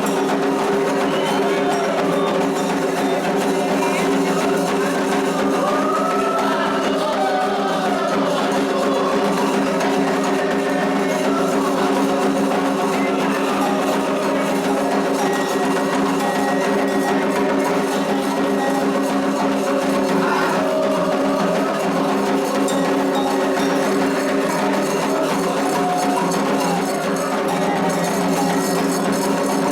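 Candomblé ritual music: steady percussion with a clacking, wood-block-like beat and faint singing voices, running without a break.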